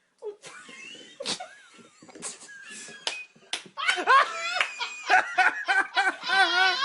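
Several sharp knocks or slaps in the first few seconds, then a person bursts into hard laughter about four seconds in, in quick repeated pulses.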